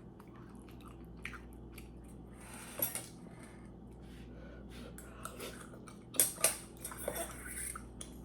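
Someone eating beef rice cake soup: quiet chewing with scattered sharp clinks of utensils against a bowl or dish, the two loudest clinks coming about six seconds in.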